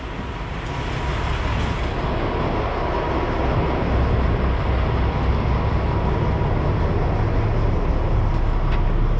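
Semi truck's diesel engine running with a steady low rumble that grows louder over the first four seconds, then holds steady.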